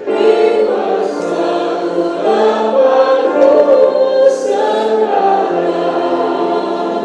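A congregation or choir singing a worship song together, with several voices holding sustained notes.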